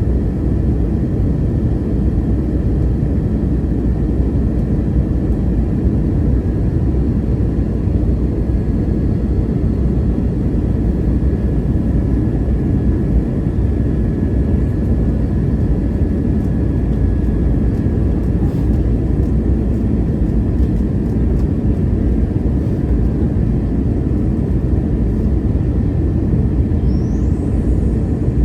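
Airbus A321neo airliner heard from inside the passenger cabin: a loud, steady low rumble of the aircraft in motion, with a faint steady whine above it.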